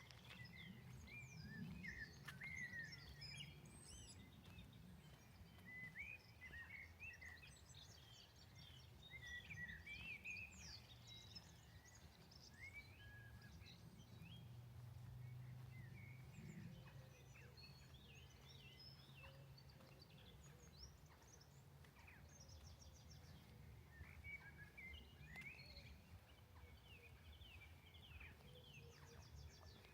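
Several songbirds chirping and singing faintly, with many short calls and trills overlapping, over a low steady rumble.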